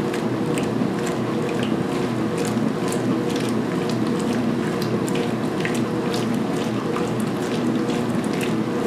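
Belt-drive 2016 Speed Queen top-load washer agitating towels at high speed in its main wash: a steady motor and transmission hum with water sloshing and splashing around the agitator.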